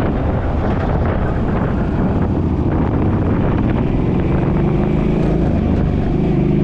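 Suzuki engine and road noise while driving, with wind noise. About two-thirds of the way through, the engine note comes through more clearly and rises slightly in pitch.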